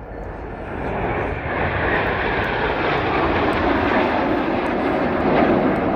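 Aircraft engine noise from an aircraft flying a display pass, swelling about a second in and staying loud.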